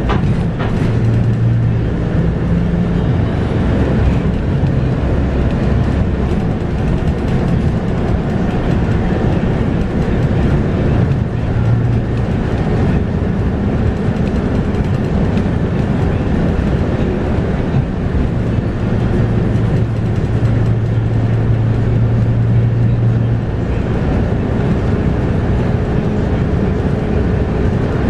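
Scania K230UB bus's 8.9-litre five-cylinder DC9 diesel engine and ZF Ecomat six-speed automatic gearbox running under way, heard on board as a steady, loud low drone whose pitch shifts several times as the bus changes speed.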